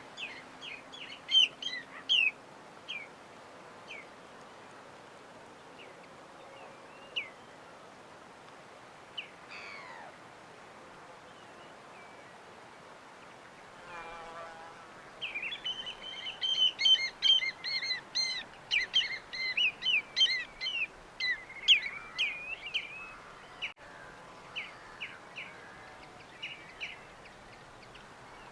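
Small birds chirping in short, sharp high notes: scattered at first, then a dense flurry of rapid chirps for several seconds a little past the middle, thinning to scattered chirps again near the end.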